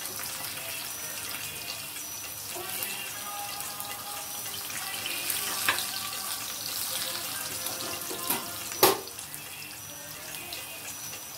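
Plantain slices sizzling in hot oil in a frying pan. A metal slotted skimmer clicks against the pan twice, the louder click about nine seconds in.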